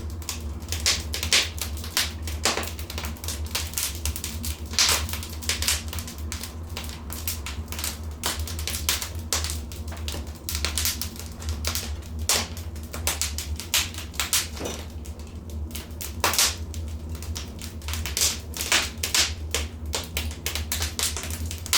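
Wood fire burning in a fireplace, crackling and popping in quick, irregular sharp snaps over a low steady rumble.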